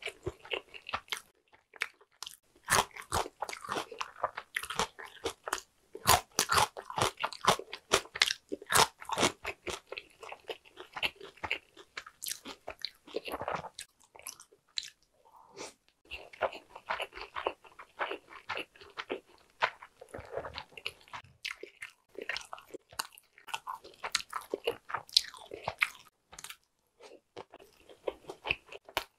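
Close-miked crunching and chewing of crisp batter-fried king prawn: a dense run of sharp, crackly bites and chews, with a couple of short pauses.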